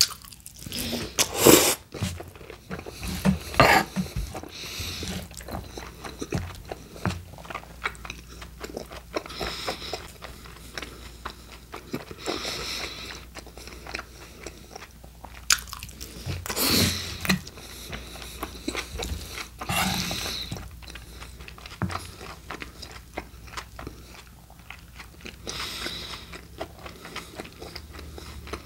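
Close-miked chewing of a mouthful of steak burrito filling: continuous wet, crunchy mouth sounds, with a few louder bursts about 1.5, 3.5, 17 and 20 seconds in.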